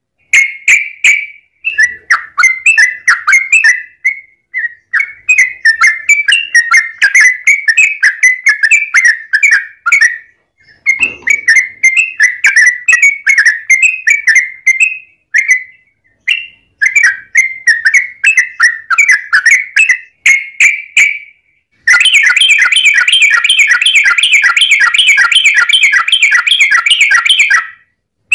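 Yellow-vented bulbul singing loud, bubbling chattering phrases with short pauses between them. Near the end comes one long, fast, unbroken rolling trill lasting about six seconds.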